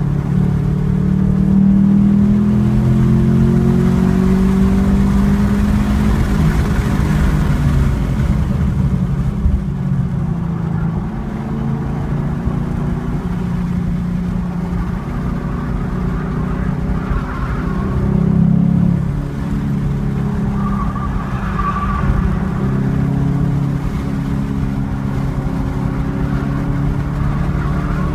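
2014 Chevrolet Camaro SS 1LE's 6.2-litre V8, heard from inside the cabin, held in third gear between about 3,500 and 4,500 rpm. It pulls hard, eases off for a corner around the middle and then builds again, over steady road and wind noise.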